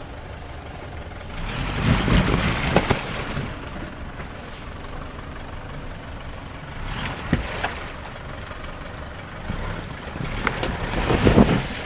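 Off-road pickup engine running under load, revving up in a surge about two seconds in and again near the end as it works to climb an obstacle in snow.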